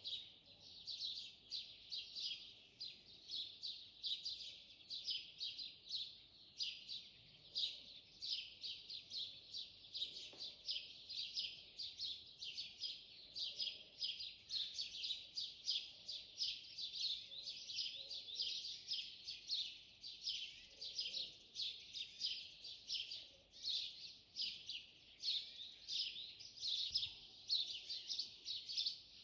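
Birds chirping without a break, a dense chorus of short high chirps several a second.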